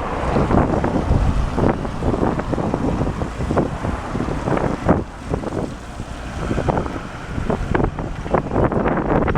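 Wind buffeting the camera's microphone in uneven gusts, a low rumble with frequent short flares.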